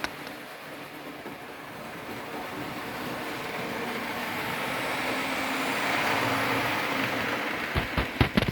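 N-scale model diesel locomotive, with a Fleischmann V160 mechanism, running on its track with a freight train. The whir of the motor and the wheels grows louder to a peak about six seconds in, then eases off, and a few sharp clicks come near the end.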